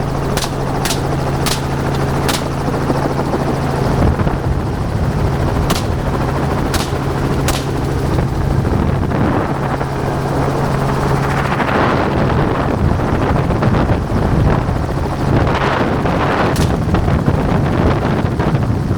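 Helicopter running steadily with a loud drone of rotor and engine. Scattered through it are sharp single cracks of gunfire, several in quick succession at the start, more in the middle and near the end, from shooters firing on hogs from the helicopter.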